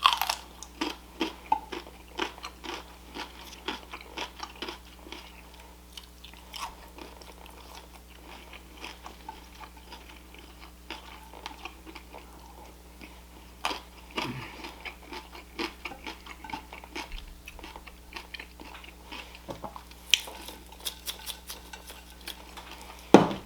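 A person chewing and crunching food close to the microphone, with many short wet mouth clicks and smacks; a louder smack comes near the end.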